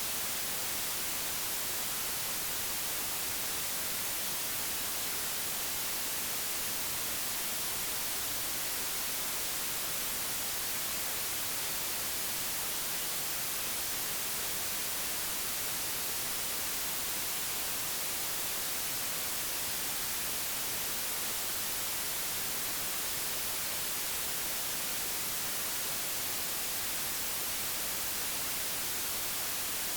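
Steady, low-level digitally generated white noise: an even hiss with no tones or changes, brighter in the high frequencies.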